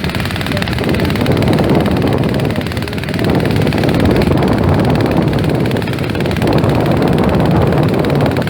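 Lawn tractor engine running loud and rough, getting a little louder about three seconds in.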